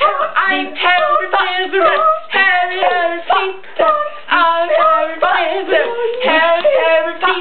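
Voices singing a quick, rhythmic chant.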